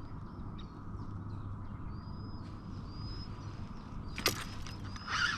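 Quiet outdoor ambience: a steady low rumble with faint, short high chirps, likely small birds, around the middle. There is one sharp click a little after four seconds, and a louder high warbling sound starts just before the end.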